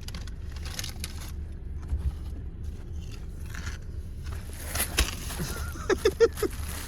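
Rustling, scraping and clicking of handling inside the car, over a steady low rumble. There is a sharp click about five seconds in and a few short, sharp sounds near the end.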